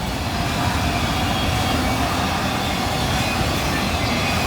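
Autorack cars of a freight train rolling past, a steady rumble of steel wheels on rail.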